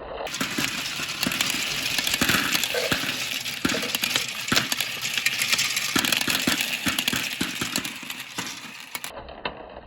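Marbles rolling and rattling down a marble-run track: a continuous rolling rush with many sharp clicks as they hit and bounce along the pieces. The sound changes abruptly shortly after the start and again near the end.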